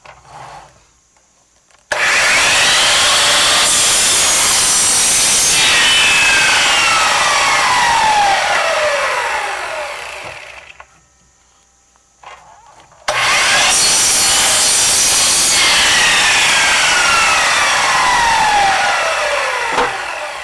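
Electric saw switched on twice, each time running for several seconds while cutting scrap wood into thin strips. Each time it is then switched off and winds down with a falling whine.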